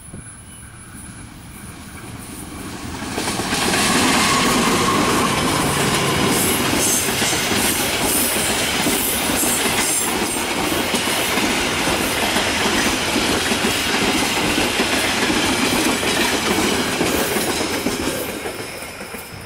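A passenger train hauled by a diesel locomotive passes close by. Its sound builds over the first few seconds as the locomotive arrives, then the coaches' wheels run steadily over the rails, fading near the end as the last coach goes by.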